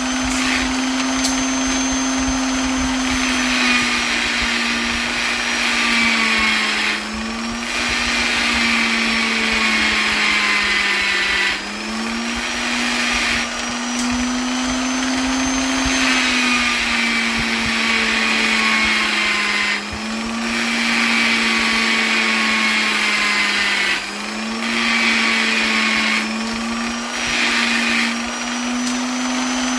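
Electric polisher running continuously with a steady motor whine and hiss. Every few seconds the pitch dips slightly and the hiss breaks off briefly.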